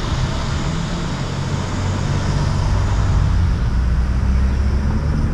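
Traffic noise with a vehicle engine running, a steady low hum under an even road-noise hiss.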